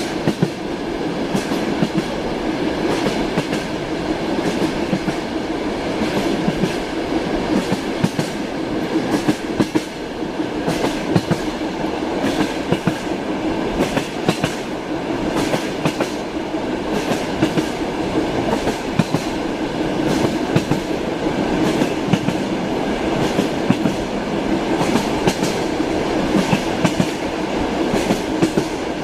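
A moving passenger train heard from inside a compartment: a steady rumble with the wheels clacking over the rail joints, many sharp knocks throughout.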